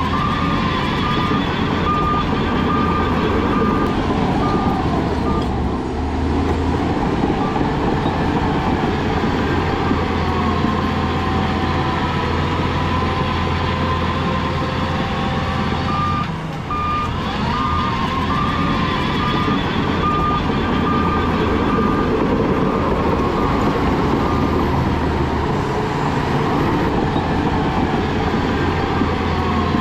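Heavy diesel machinery running steadily with a deep engine drone, while a reversing alarm beeps in two spells: in the first few seconds and again a little past the middle.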